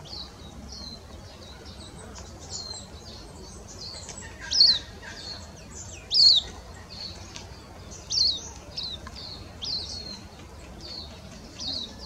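Eastern spinebill calling: short, high-pitched chirps, scattered through the stretch and coming in bunches, with the loudest notes spaced about one and a half to two seconds apart in the middle.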